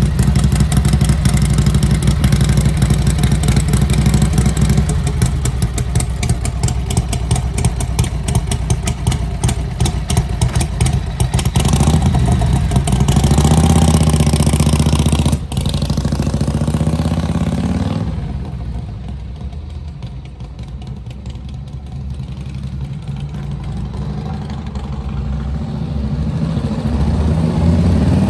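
1946 Harley-Davidson EL Knucklehead's overhead-valve V-twin running after a cold start, its revs rising and falling. Its sound drops noticeably quieter for several seconds past the middle, then builds back up.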